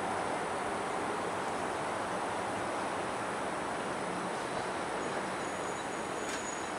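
Container freight train's wagons rolling away on the rails, a steady even running noise as the train recedes.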